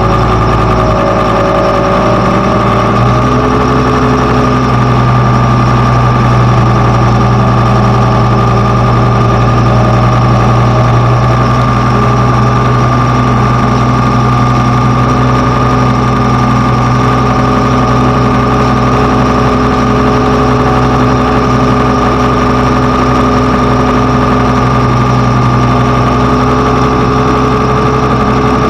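Heavy diesel engine of a construction machine running steadily near idle. Its note shifts in the first few seconds, then holds, with a steady high whine over it.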